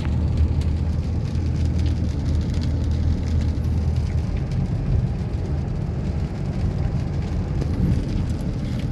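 Rainstorm: steady rain with scattered drop ticks over a constant low rumble.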